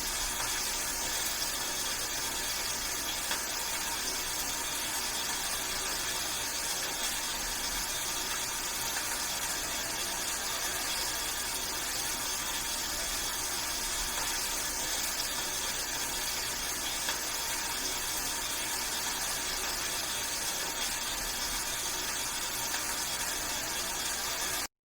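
Steady rain, an even hiss with faint scattered ticks of drops, that cuts off suddenly near the end.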